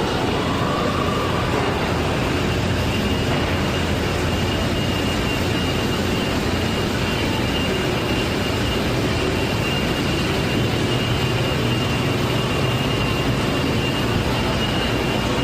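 Steady rushing drone of ventilation and fan noise filling the food court, with a faint high whine held throughout.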